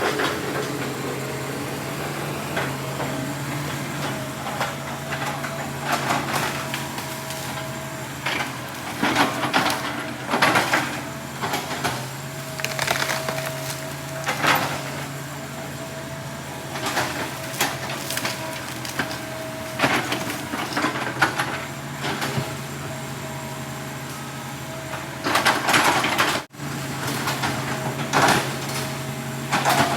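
Heavy diesel earthmoving machine running steadily, with a thin steady whine over the engine note. Every few seconds there are short bursts of knocking and crunching as timber logs are handled.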